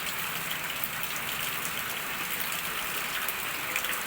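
Steady rain falling, an even hiss with faint scattered drop spatters.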